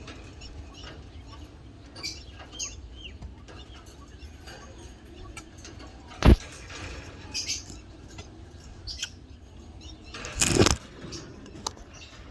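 Budgerigars in a breeding cage giving short, scattered high chirps over a steady low hum. A sharp, loud knock about 6 seconds in and a longer, loud rustling burst about 10 seconds in, likely wing flapping or movement in the cage.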